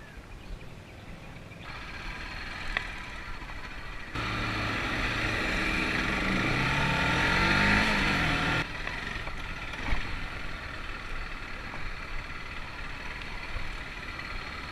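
Motor vehicle engine and road noise, changing abruptly a few times. In the loudest middle stretch an engine's pitch rises and then falls.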